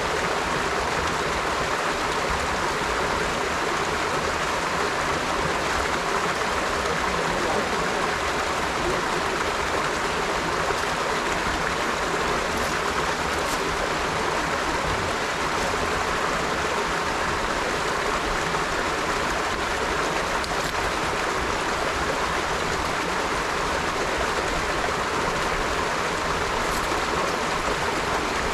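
River water flowing over stones, a steady unbroken rush.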